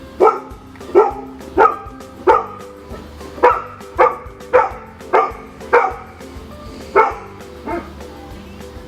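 A dog barking repeatedly: about eleven short, sharp barks roughly half a second to a second apart, with a brief pause before the last two, the final one softer.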